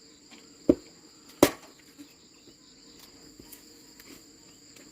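Two sharp knocks about three quarters of a second apart, the second the louder, over a steady high chirring of crickets.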